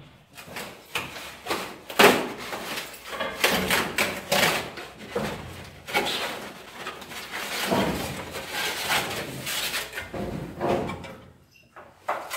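Irregular clattering, knocking and scraping of parts and tools being handled, with a loud knock about two seconds in and a brief lull near the end.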